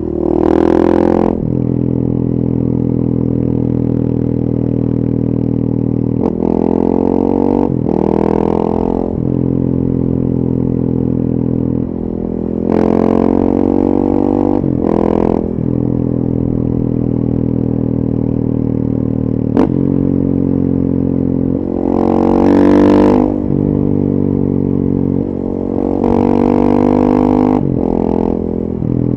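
The four-stroke single-cylinder engine of a 2014 KTM 450 EXC supermoto, with a full FMF 4.1 exhaust, running under way. About five times it pulls harder as the throttle opens, the pitch climbing and then dropping back, with a single sharp click partway through.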